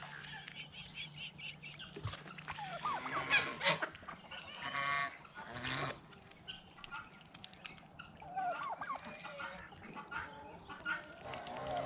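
Backyard flock of ducks and chickens calling: scattered honking calls and short chirps, thickest a few seconds in and again in the last few seconds.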